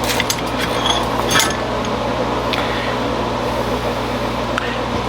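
Steady machine hum, like a running fan, with a few light metallic clinks: several in the first second and a half, then two single ones later.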